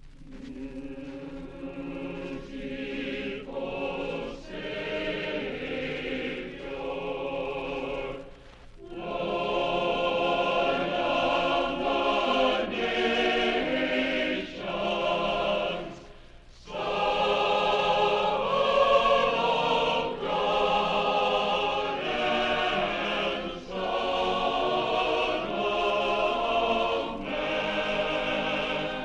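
A choir singing in harmony, in phrases with short breaks between them. It comes in at the start, grows fuller and louder from about nine seconds in, and pauses briefly again around sixteen seconds.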